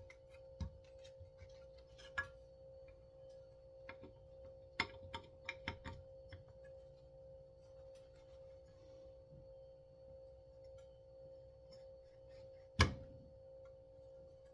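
Small clicks and taps of hand tools working on a chainsaw's recoil starter, with a cluster of taps midway and one sharp knock near the end. A faint steady hum sits underneath.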